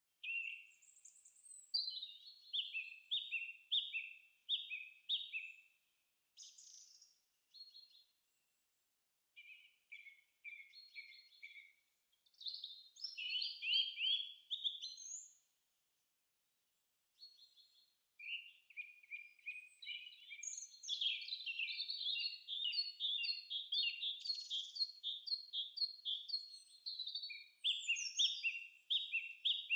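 Birds chirping and singing in quick runs of repeated notes. It cuts out to silence twice for about a second.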